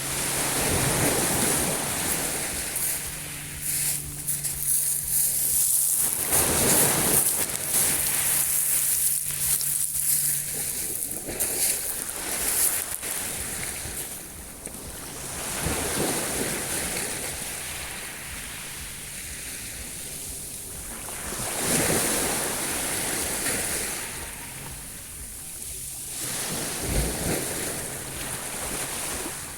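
Sea waves breaking and washing in, the surf swelling and easing every few seconds, with a faint steady low hum in places.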